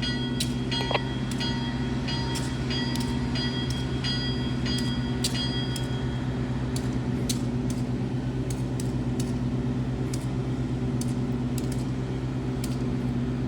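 Diesel locomotive engine idling with a steady low hum, scattered light metallic clicks over it.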